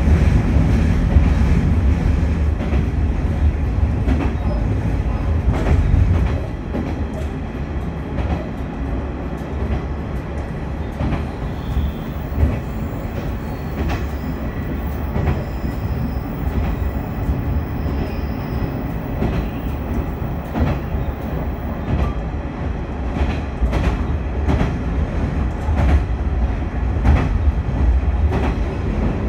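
Diesel railcar running along the line: a steady low rumble of engine and wheels on the rails, with scattered sharp clicks over rail joints. The rumble is louder for the first six seconds or so, then eases a little.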